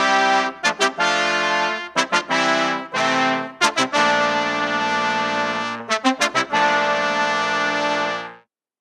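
Brass ensemble music with trumpets and trombones, playing quick short chord stabs between long held chords. The last chord is held for about two seconds, then the music stops near the end.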